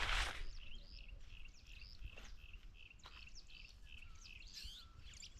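Small birds chirping faintly: a steady run of short, repeated chirps, about three a second, with a few other higher calls mixed in. A brief rustle comes at the very start.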